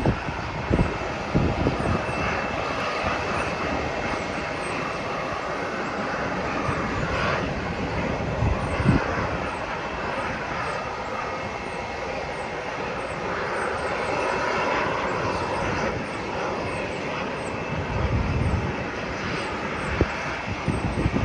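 Airliner engines running with a steady noise, while wind gusts buffet the microphone in low thumps, heaviest near the start, about nine seconds in, and towards the end.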